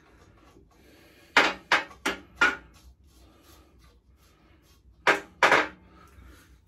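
Hammer tapping a steel swingarm spindle through the pit bike's swingarm: four quick sharp knocks, then two more a few seconds later.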